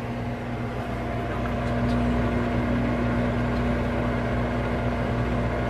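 Microwave oven running: a steady hum and buzz, with a higher tone that starts at the outset. It grows a little louder over the first two seconds.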